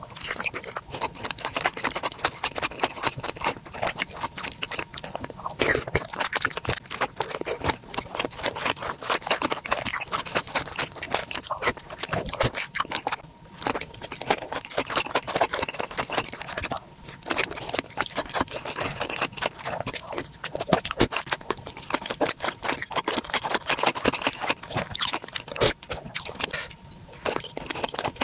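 Close-miked eating sounds: a person biting into and chewing bakso urat (beef-tendon meatballs) in spicy seblak sauce, a dense run of small mouth clicks and smacks with a few brief pauses.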